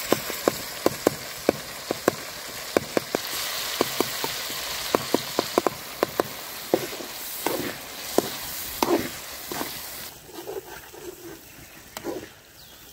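Chicken and tomatoes sizzling in hot oil in a metal karahi pot, with a metal slotted spoon knocking against the pot about twice a second as the tomatoes are mashed. The knocks thin out after about seven seconds, and the sizzle drops quieter about ten seconds in.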